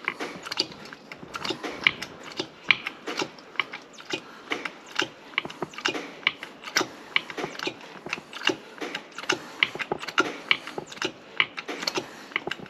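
A hand tool being worked with steady, regular metallic clicks, about two to three a second, while a bearing is pushed onto a mower shaft.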